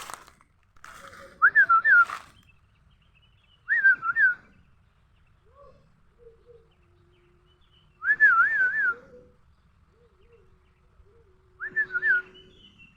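A bird-like whistled call, four times, each a short phrase of quick up-and-down warbles; fainter low wavering notes sound between them.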